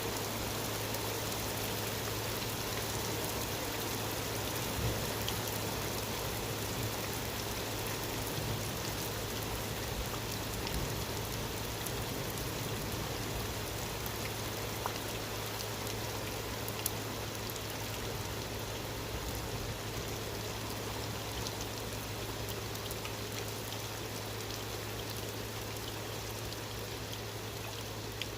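Steady rain of a thunderstorm falling, an even hiss with scattered sharper drop hits. A steady low hum runs underneath.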